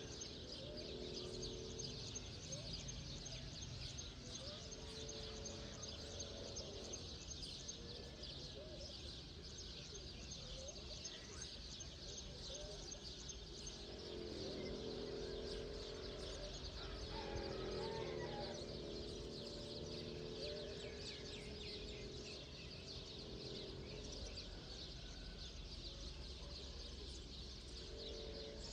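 Many birds chirping at once in a morning chorus, with a fast, even trilling call in two stretches and lower warbling calls among them, over a steady low background rumble.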